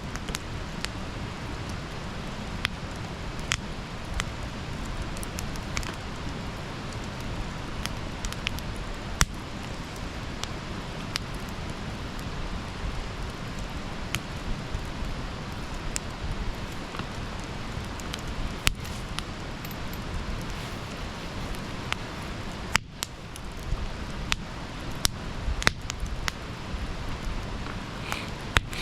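Wood fire burning: a steady hiss and rumble with irregular crackles and sharp pops.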